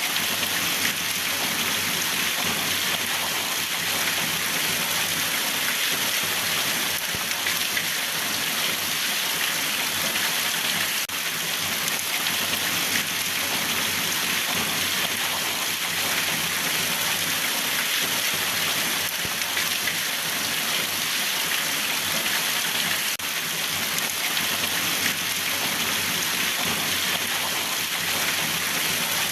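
Steady, even rain falling on a surface, a continuous dense patter.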